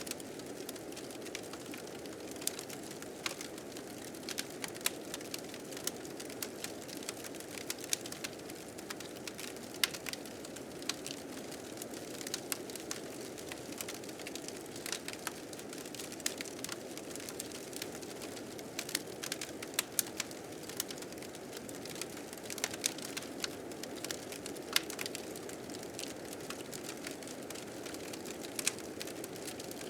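Wood fire crackling with frequent irregular sharp pops over the steady rush of blizzard wind.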